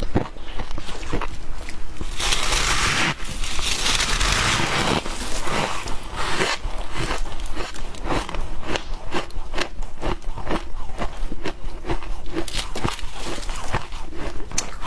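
Humidifier ice being bitten and chewed close to the microphone: a rapid run of crisp crunches. A dense stretch of crunching comes about two seconds in and lasts about three seconds.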